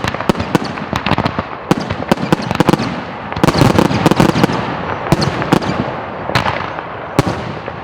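Fireworks going off in a rapid barrage: many sharp bangs over continuous crackling, densest a few seconds in and thinning out near the end.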